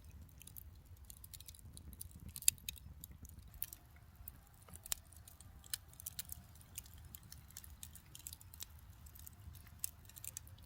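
Wood campfire crackling, with irregular sharp pops and snaps over a low steady rumble; the loudest pops come about two and a half and about five seconds in.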